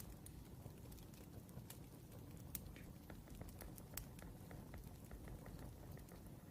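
Wood fire crackling: irregular sharp pops and ticks scattered over a faint, steady low rumble.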